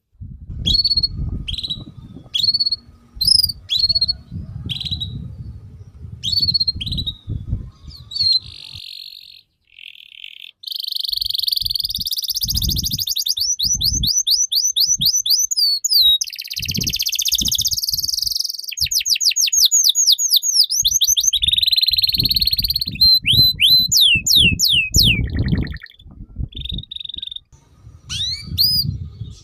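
A songbird singing a long, varied song: short whistled notes, fast series of rising and falling sweeps, and buzzy chattering stretches. A low rumble runs underneath during the first third and again near the end.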